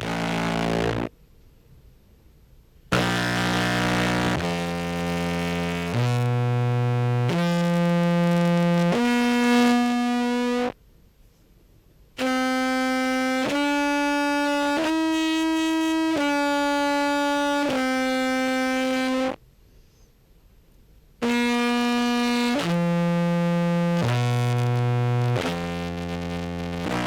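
Contrabass clarinet played through a pedal chain with fuzz and compression, giving a heavily distorted, buzzy tone. It plays three short phrases of held notes, each about a second long, stepping up in pitch, staying high, then stepping back down, with short silences between the phrases.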